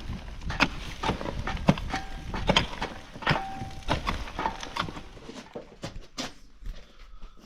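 A run of irregular knocks and clicks, some with a short ringing tone, growing fainter toward the end.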